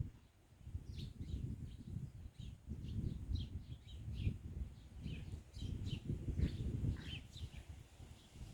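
Small birds chirping, many short high chirps in quick succession, over a low rumble that swells and fades unevenly.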